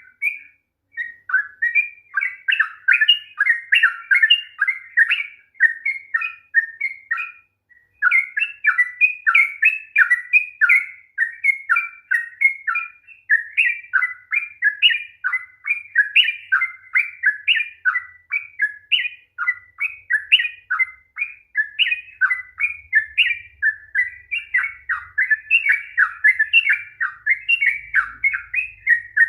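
Yellow-vented bulbul singing a long, rapid run of short warbling notes, about four a second, with two brief pauses near the start.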